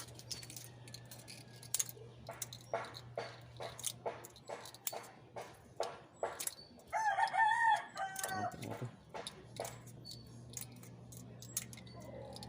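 A rooster crows once, about seven seconds in, over scattered clicks and knocks and a steady low hum.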